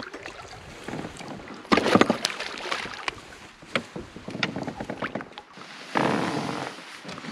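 Knocks and bumps in a canoe, loudest in a cluster about two seconds in, with a gust of wind on the microphone near the end.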